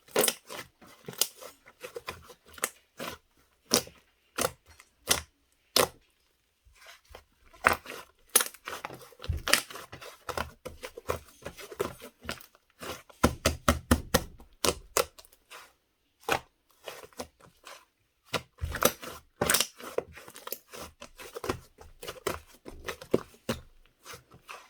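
Soft, fluffy slime being pressed, folded and stretched by hand, giving irregular sharp clicks and pops in quick clusters, with a denser, fuller patch of squishing about halfway through.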